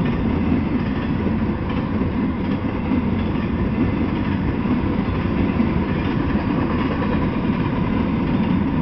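Freight train of intermodal well cars rolling past: a steady rumble and clatter of steel wheels on the rails.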